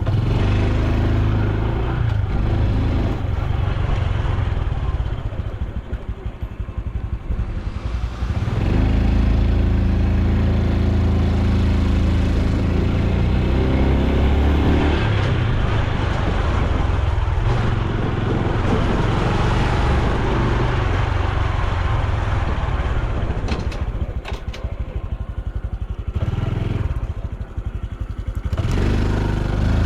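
Honda Super Cub C125's single-cylinder four-stroke engine running under way, with road and wind noise. It eases off twice, then picks up again, its pitch rising near the end as it accelerates.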